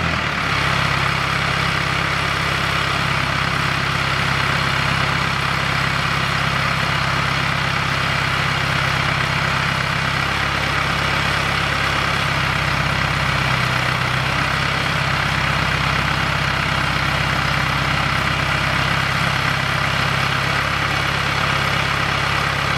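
Engine of a guardrail post driver running steadily at a constant speed.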